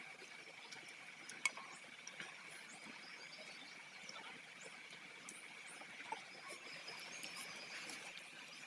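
Faint steady high-pitched insect drone, with scattered small clicks and taps.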